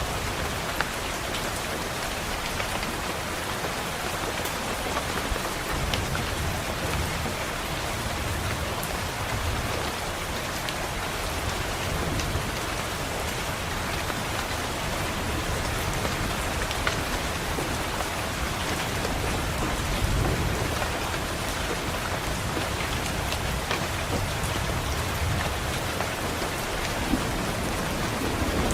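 Steady rain falling against a window, with low rolls of thunder rumbling in several times.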